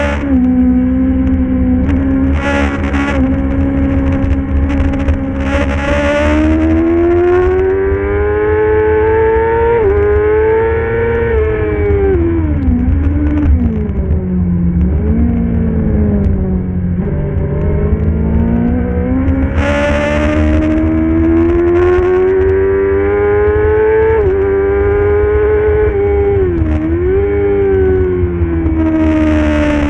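Racing motorcycle engine at high revs. Its pitch climbs through the gears with a shift about ten seconds in, falls through a run of downshifts, then climbs again to another shift and drops once more near the end. A steady low rumble runs underneath.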